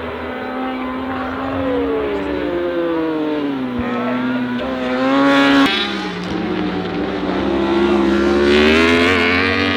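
Superbike racing engines on track, their pitch falling as they slow, then rising again as they accelerate. The sound changes abruptly about halfway through, then falls and climbs once more near the end.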